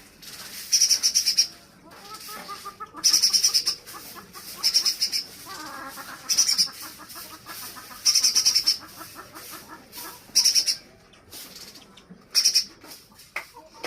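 Spiderhunter (pijantung gunung) calling: about seven loud bursts of fast, high, rattling notes, one every second and a half to two seconds, with softer twittering between.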